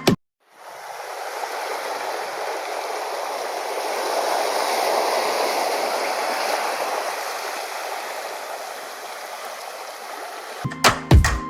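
Rushing water, a steady wash of noise that swells toward the middle and eases off again, with music coming back in near the end.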